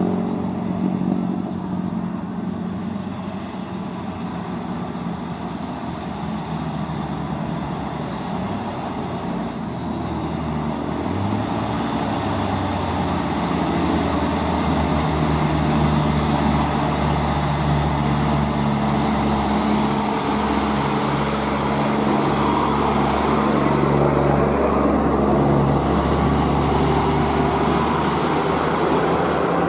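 Heavy diesel truck engine running on the road, its note climbing and growing louder about eleven seconds in, then holding steady, with tyre and road noise underneath.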